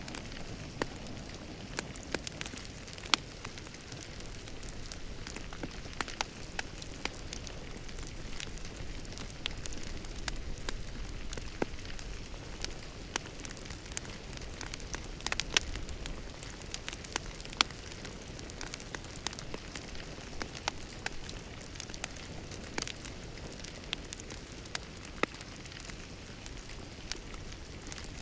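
Wood fire crackling in a fireplace: a soft steady hiss broken by frequent irregular sharp pops and snaps.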